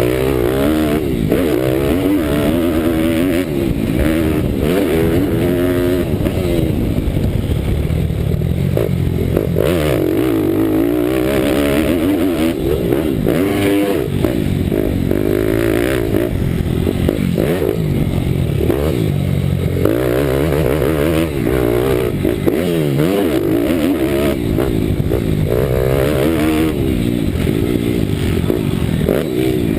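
Bucci Moto pitbike's Daytona Anima 190 cc single-cylinder four-stroke engine being ridden hard, the revs rising and falling over and over as the rider works the throttle and gears, heard from a GoPro on the bike.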